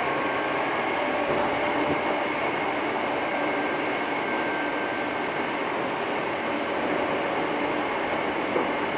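Steady running noise inside a Hankyu 6300-series electric train car under way, an even rumble with a few faint steady tones over it.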